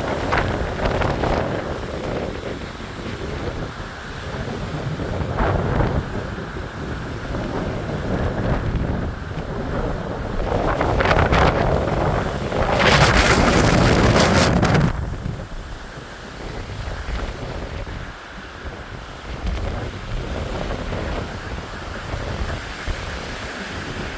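Strong gusting wind in a mountain wind storm, rushing and buffeting the microphone. It swells to its loudest gust in the middle and eases off after that.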